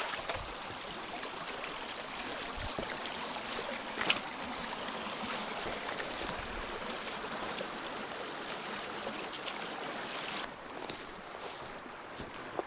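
A stream rushing steadily. About ten seconds in the rushing drops away and footsteps come through.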